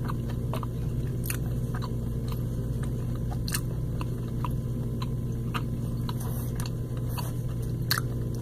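A person chewing a bite of warmed-up protein bar, with soft, irregular mouth clicks over a steady low hum.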